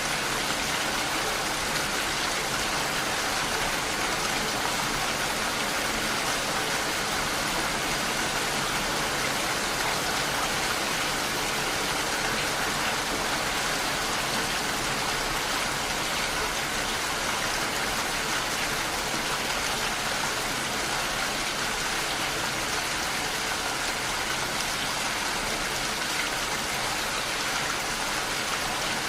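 Steady rainfall, an even hiss of many drops with no distinct strikes.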